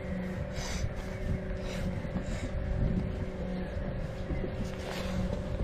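Wind rumbling on the microphone while riding, with a steady hum underneath.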